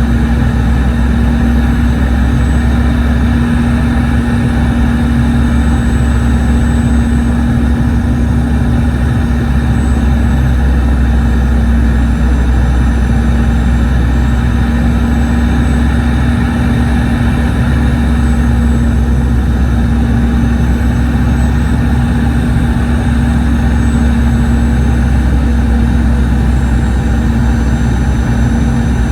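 Steady drone of a Boeing 717's rear-mounted Rolls-Royce BR715 turbofan engines heard inside the cabin from a rear seat, with a strong steady hum over a deep rumble.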